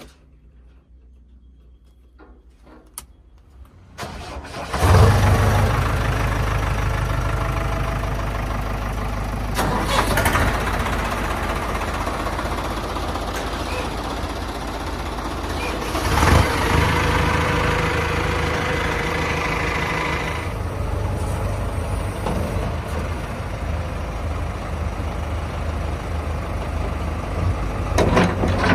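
Tractor engine starting about five seconds in, then running steadily, with two brief louder surges along the way.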